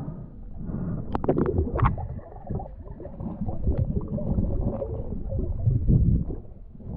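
Muffled gurgling and rumbling of water heard through a waterproof camera housing during a river dive, with a few sharp knocks about a second in.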